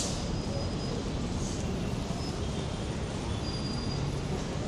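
Steady city-street rumble of motor traffic, with a sharp click right at the start.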